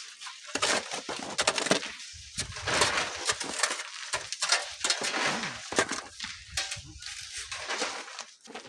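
Sand and gravel crunching and clattering in irregular strokes, as they are shovelled and sifted by hand.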